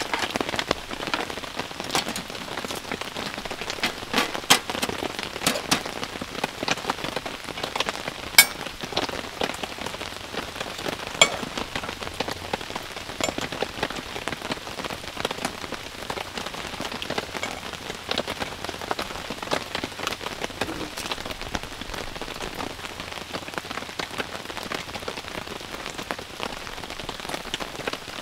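Steady rain falling on the fabric of a camping tent, an even hiss broken by scattered sharp ticks, a few of them louder.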